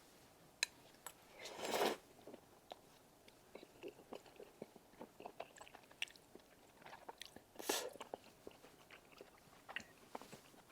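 Close-miked chewing of a mouthful of tteokbokki rice cakes covered in melted cheese: soft, wet, sticky clicks of the mouth, with two louder breathy bursts, about two seconds in and again near eight seconds.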